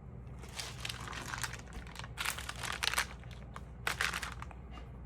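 Stamp album pages crinkling as they are handled and turned, in several rustling bursts beginning about half a second in, the loudest a little after two seconds and again near four seconds. A steady low hum runs beneath.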